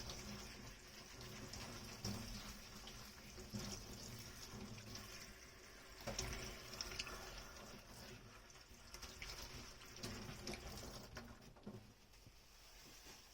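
Water running from a kitchen sink tap during hand dish washing, with small scattered clinks. The sound gets quieter about twelve seconds in.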